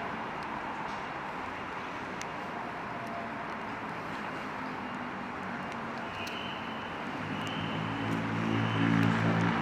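Steady street ambience on a rainy day, an even hiss of rain and traffic. In the last two seconds a motor vehicle's engine comes in and grows louder as it approaches.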